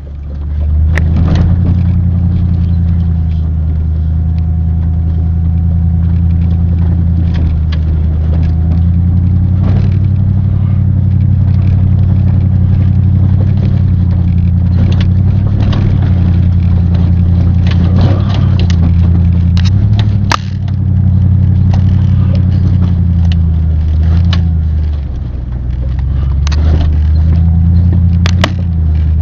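Truck engine and road noise heard while driving, the low engine note shifting now and then, with scattered knocks and rattles from jolts on the way.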